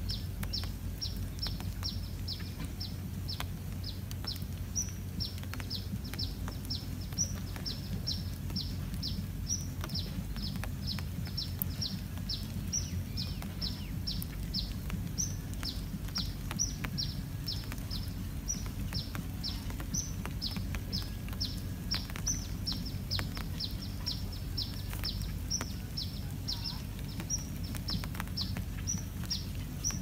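A small bird chirping over and over: short, high notes that slide downward, about two a second, over a low steady background rumble.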